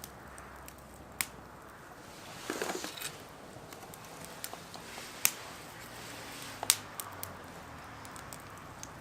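Scattered sharp pops and clicks from a fire burning in a fire stand, with a short rustling burst about two and a half seconds in.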